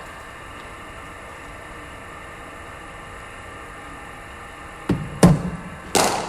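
A steady faint hum, then near the end a cricket ball is delivered by a bowling machine and struck by the bat: a small knock, then two loud, sharp cracks about three-quarters of a second apart.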